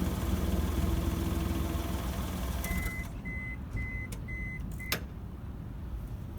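Daihatsu Mira Gino L700S three-cylinder kei-car engine running through an aftermarket cannonball-style muffler. Its rumble dies down a little under three seconds in, and then five short, evenly spaced high beeps sound, followed by a sharp click.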